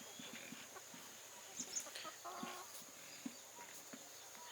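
Chickens clucking faintly now and then, over a steady high-pitched tone.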